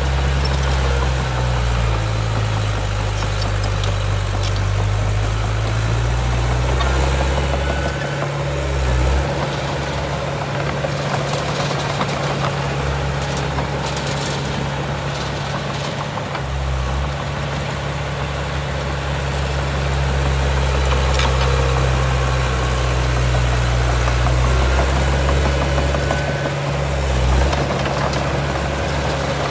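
Heavy diesel earthmoving machinery running steadily. The low engine note shifts in pitch several times as the load changes, with a couple of brief surges.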